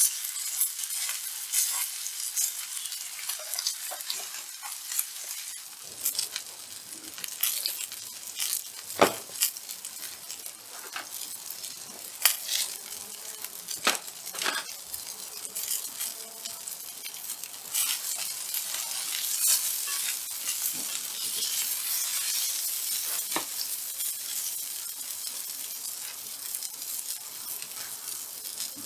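Beef steak sizzling on a thick black mill-scale steel griddle plate over a wood fire: a steady hiss with frequent sharp pops and crackles.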